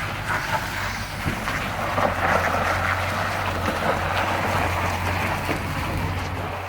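Scania 580 S V8 truck driving, its engine giving a steady low drone under road and wind noise.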